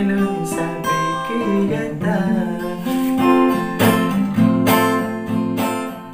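Acoustic guitar strummed and picked in a slow instrumental ending to the song, the chords dying away near the end.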